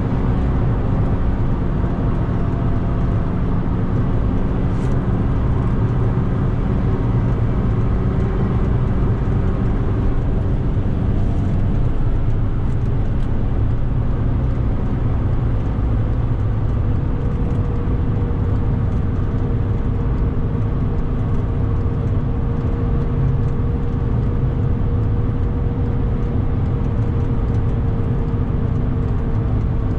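Onboard sound of a 2006 Mk5 VW Golf's stock 2.0 TDI four-cylinder diesel running at speed, with tyre and wind noise. One engine tone climbs slowly through the second half as the revs rise.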